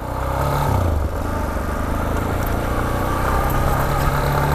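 Yamaha XTZ 250's single-cylinder four-stroke engine pulling away: the revs rise, drop with a gear change under a second in, then climb steadily as the bike accelerates.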